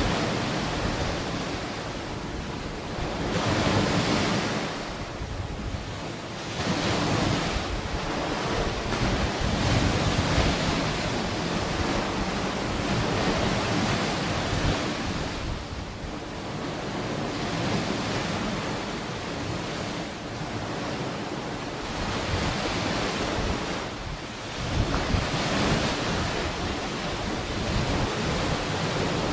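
Ocean waves washing onto a beach, the surf swelling and falling back every few seconds, with wind buffeting the microphone.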